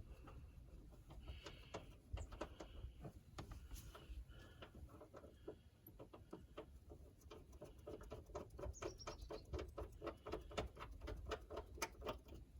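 Faint handling of tools and seat-belt latch parts: scattered light clicks and taps, then a run of quick, even clicks, about five a second, in the second half.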